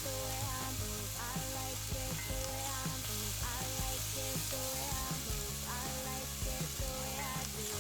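Food frying, with a steady crackling sizzle of hot oil, under background music with a melody and a steady beat.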